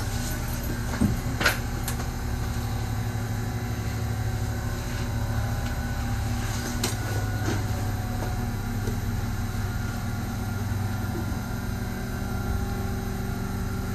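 Steady hum from the cab of a stationary Kintetsu 1021 series electric train as its onboard equipment runs while it stands at a station, with two short clicks about a second in.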